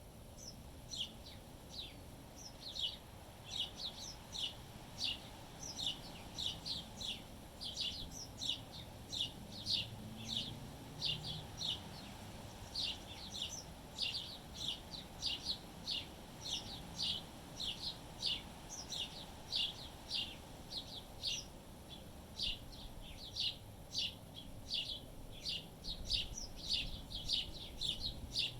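Small birds chirping busily: a steady stream of short, high chirps, several a second, over low wind noise.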